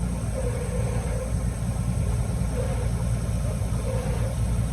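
Canal tour boat's engine running steadily at low speed, a constant low rumble.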